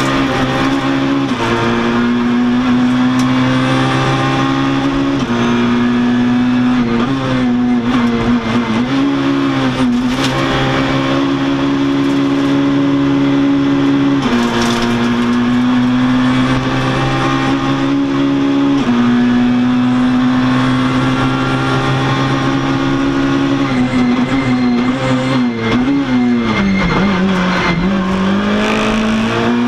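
Citroën rally car's engine at high revs, heard from inside the cockpit. The pitch climbs and drops repeatedly as the driver works through the gears, with a deeper dip and recovery near the end where the car slows and drops to second gear before pulling again.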